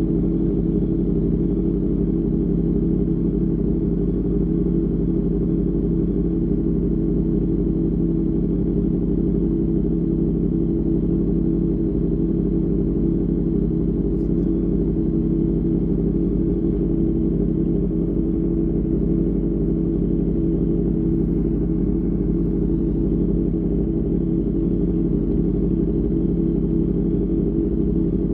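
Superbike engine through an Austin Racing GP1R exhaust, running at steady cruising revs with no revving up or down.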